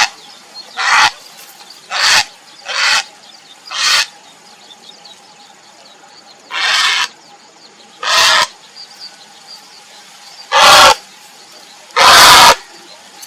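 Grey heron giving a series of harsh, croaking calls, about nine in all: the first few short and about a second apart, then spaced more widely, with the last two louder and longer. It is calling for a mate.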